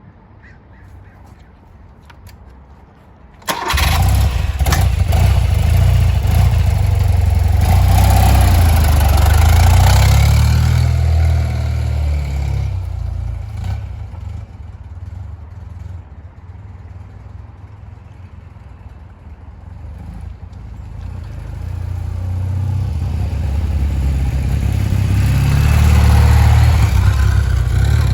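1978 BMW R100/7's air-cooled flat-twin engine starting from cold: it catches suddenly about three and a half seconds in and runs loud and fast. From about twelve seconds it settles to a lower, quieter idle, then gradually gets louder again toward the end.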